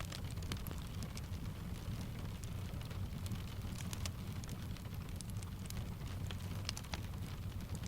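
Steady rain mixed with a crackling wood fire: a low rumbling hiss under scattered small pops and ticks.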